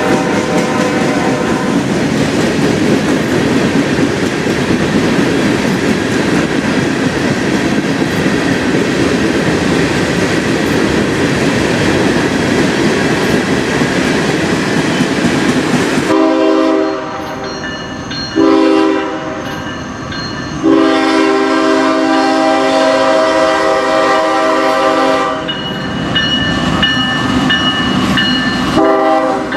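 A freight train rolling past with a steady rumble of wheels on rail. About halfway through, this gives way to a diesel locomotive's multi-chime air horn sounding in several blasts, the longest about four seconds.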